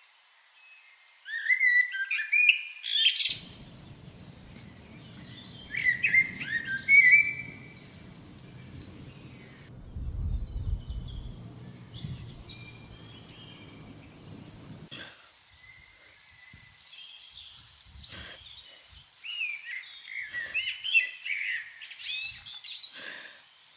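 Small birds chirping and calling in quick bursts of high notes, busiest near the start and again near the end. A low steady rumble runs under them through the middle and swells briefly about ten seconds in.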